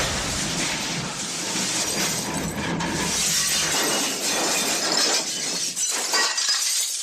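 The MGM 'elephant smash' crash sound effect: a long, loud smash of shattering glass and clattering debris, dying away right at the end.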